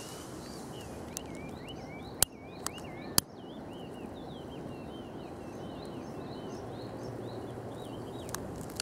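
Small birds chirping in a string of short warbling notes over a steady outdoor background hiss, with two sharp clicks about two and three seconds in.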